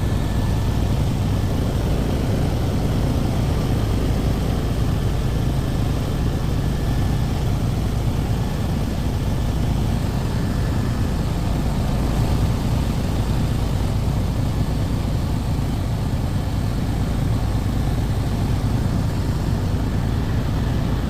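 Helicopter in flight, its engine and rotor making a steady, loud drone.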